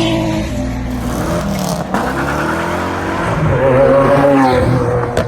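Toyota AE86's BEAMS 3S-GE four-cylinder engine revving under drift. Its pitch falls over the first two seconds, climbs again toward about four seconds, then drops off.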